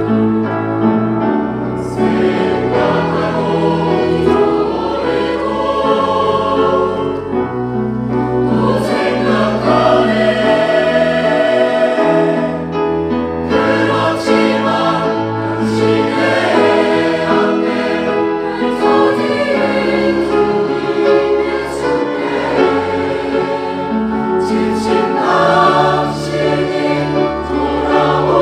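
Church choir singing a sacred choral anthem, with sustained chords moving steadily from phrase to phrase.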